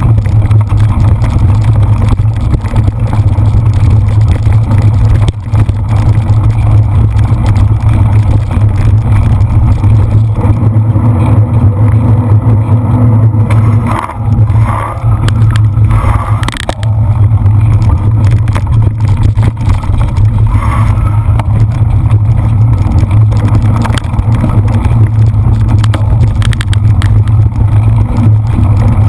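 Loud, steady low rumble of wind buffeting the microphone of a camera moving at riding speed, dipping briefly a few times near the middle.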